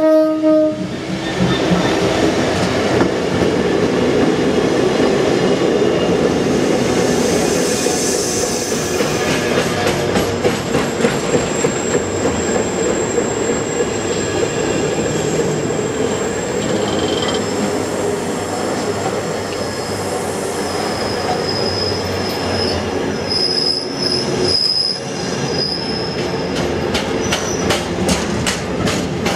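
A DRS Class 66 diesel locomotive passes close by at the start, then a long train of intermodal container flat wagons rolls past with a steady rumble of wheels on rail. Thin, high wheel squeals come and go, and near the end there is a rapid clickety-clack of wheels over rail joints.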